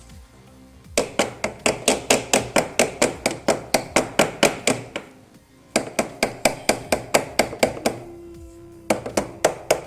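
Rapid hammer taps, about five a second, in three runs separated by short pauses.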